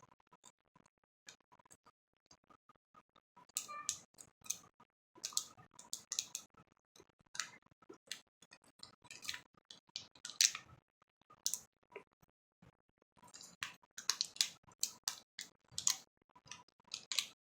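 Irregular small clicks, taps and rustles from the parts and packets of a toy volcano kit being handled. Sparse at first, busier about three and a half seconds in.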